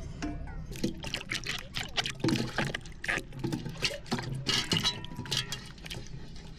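Water being poured and splashing, with a run of short, irregular splashes and knocks.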